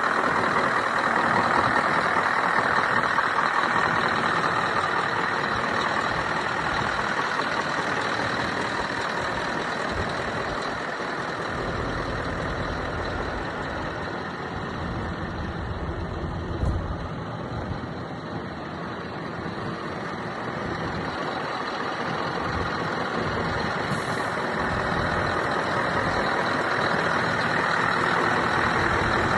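Scania R620 truck's V8 diesel running steadily, easing off slightly in the middle and coming back up, with a faint steady high whine. There is one short knock about two-thirds of the way through.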